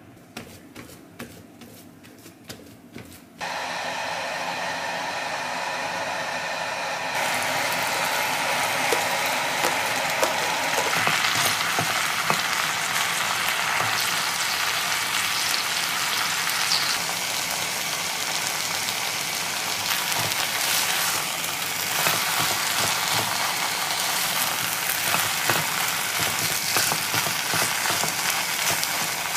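Chopped large green onions sizzling in hot oil in a pot, stirred with a wooden spatula as chili pepper powder is mixed in. The first few seconds hold only a few light clicks, then the sizzle starts suddenly and grows louder a few seconds later, full of small crackles.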